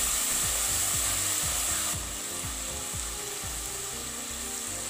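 Onions and tomatoes sizzling as they fry in a clay pot, a steady hiss that eases a little about two seconds in. A soft low beat repeats about twice a second through the first few seconds.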